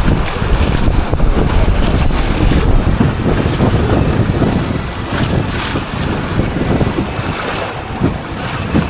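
Wind buffeting the microphone over the rush of river water.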